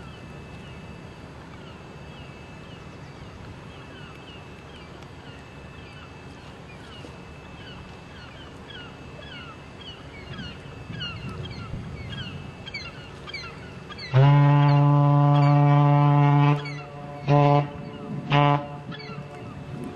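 The Great Lakes freighter Joseph H. Frantz's ship's horn: one long blast followed by two short ones, the customary Great Lakes master's salute. Before it, a steady low rumble with wind noise.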